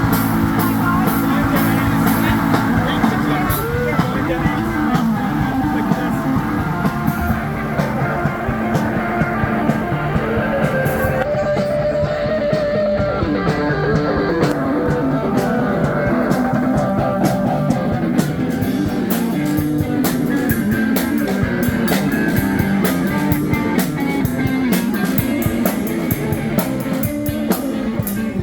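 Live rock band playing an instrumental outro, with electric guitar over drums.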